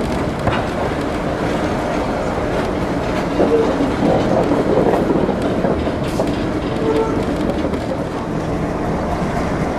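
Steady rumble and clickety-clack of a passenger train's wheels running over the rails, heard from aboard the moving car.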